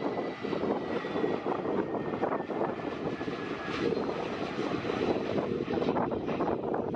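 Airbus A320neo jet airliner arriving, its CFM LEAP-1A engines heard as a steady rush of jet noise. A thin whine falls slowly in pitch and fades about four seconds in.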